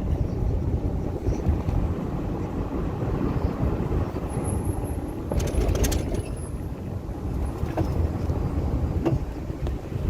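Low, fluctuating rumble of a moving vehicle on the road, with a short cluster of clicks about five and a half seconds in.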